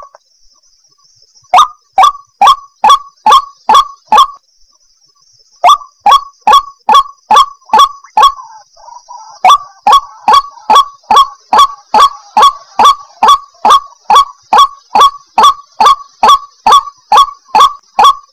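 White-breasted waterhen giving its loud, monotonous 'ruak-ruak' call over and over, about two and a half calls a second. There is a short pause just after the start and another about four seconds in, then the calls run unbroken. A faint steady high-pitched hiss lies behind them.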